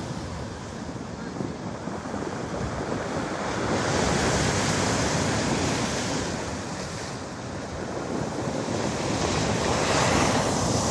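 Storm surf breaking and washing on a pebble beach, swelling in two louder surges, one about four seconds in and one near the end, with wind buffeting the microphone.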